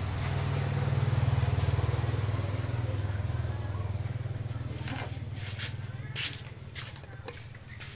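A motorcycle engine running close by with a low, fast-pulsing rumble, loudest about a second in and then slowly fading. A few light clicks come in the second half.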